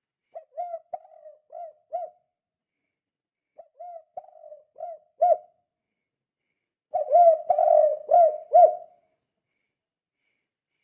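Spotted dove (tekukur) cooing in the song type keepers call "kuk 2": three phrases of about five low cooing notes each, with short pauses between them. The last phrase is the loudest.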